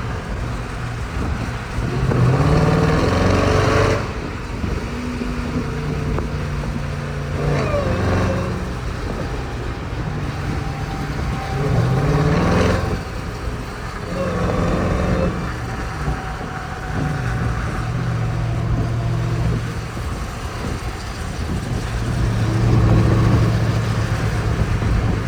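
Jeep Grand Cherokee Trackhawk's supercharged 6.2-litre V8 accelerating hard several times, its pitch climbing and dropping as it shifts up through the gears, between steadier stretches of cruising.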